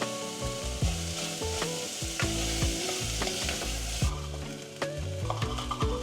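Food sizzling in a hot pan while being stirred, with short taps of a utensil against the pan. The high sizzle drops off sharply about four seconds in.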